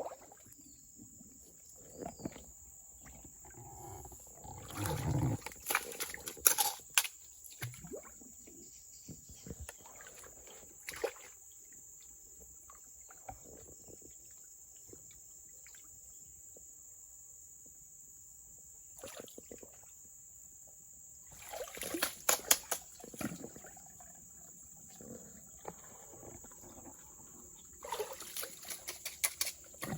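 A steady high-pitched insect drone in the forest, with three spells of rapid clattering and water splashing and trickling, about a quarter of the way in, past the middle and near the end.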